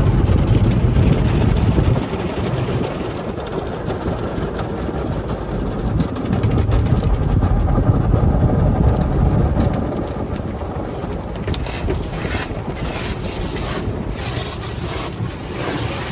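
Automatic tunnel car wash heard from inside the car: a steady rumble of the wash machinery with water spraying against the body, and from about two-thirds of the way in a run of short, sharp swishes of spray or brushes hitting the car.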